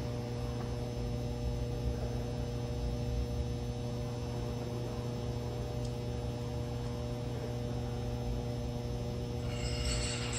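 Steady electrical hum of a powered-up Fadal 3016 vertical machining center, with a higher hiss coming in near the end.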